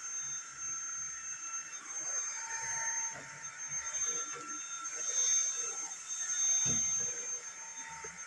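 Cordless stick vacuum cleaner running with a steady high-pitched whine, with a thump about two-thirds of the way through.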